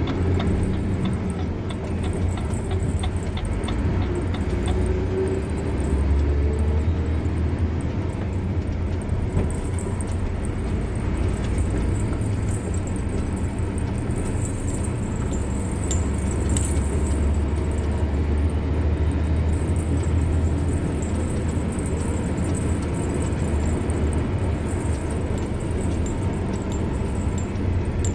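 Car driving on the road, a steady low rumble of engine and tyre noise. A light rapid ticking is heard in the first couple of seconds.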